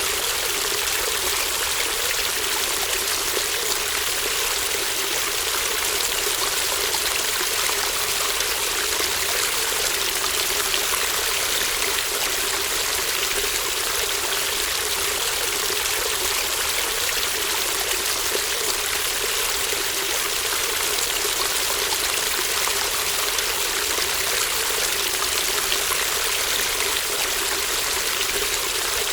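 Shallow brook babbling steadily: an even rush of running water with a trickling edge.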